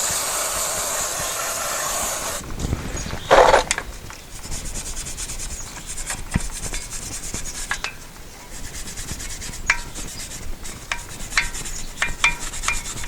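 Spray hissing steadily for about two seconds as the brake parts are cleaned, then scrubbing and rubbing on the caliper and bracket, with a louder knock about a second later and scattered light metallic clicks.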